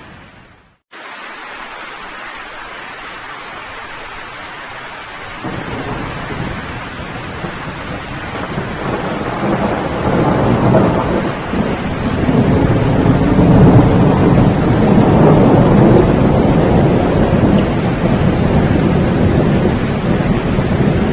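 Steady rain hiss that fades and drops out to silence for a moment just under a second in, then resumes. From about five seconds in, a long roll of thunder builds beneath the rain, rumbling loudest in the middle and still going at the end.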